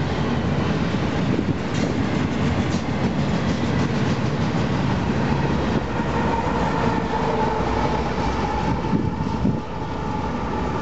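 Union Pacific double-stack intermodal freight train rolling past, steel wheels running on the rails. A steady high tone comes in about halfway through as the last cars go by.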